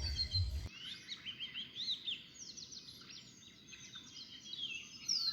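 Many small songbirds chirping and twittering in a dense chorus of quick rising and falling calls. A low pulsing thump under the birds stops abruptly in the first second.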